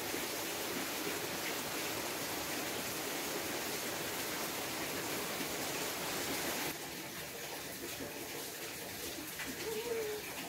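Steady rain hiss. About two-thirds of the way through it drops suddenly to a lighter level. Near the end there is a faint, low bird call.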